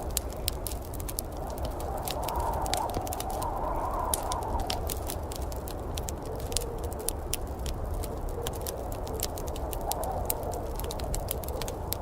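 Wood fire crackling, with irregular sharp pops over a steady low rumble and a wavering hiss.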